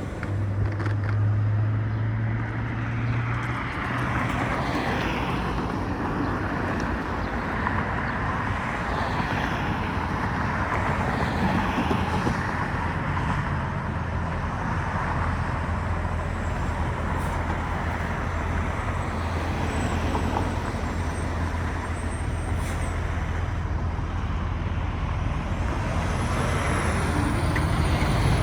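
Steady rushing road noise during a ride on an InMotion E20 electric unicycle, with a low even hum and the sound of road traffic.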